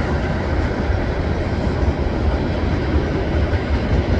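CN freight train rolling past beneath the bridge: a steady, deep rolling noise of wheels on rail that neither builds nor fades.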